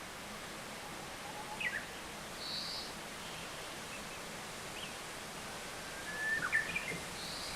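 Wild birds giving a few short, scattered chirps and calls, with a small cluster of calls near the end, over a steady outdoor background hiss.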